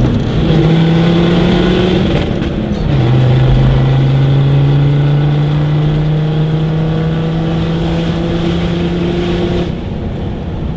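Land Rover Discovery 2 TD5 five-cylinder turbodiesel pulling under acceleration, its note climbing slowly. A little under three seconds in, the pitch drops at a gear change, then climbs steadily again. Near the end the throttle eases off and it gets quieter.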